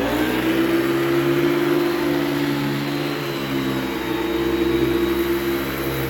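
Hoover Celebrity II Elite canister vacuum cleaner running steadily just after being switched on. Its motor's whine rises a little in pitch in the first half second as it comes up to speed, then holds.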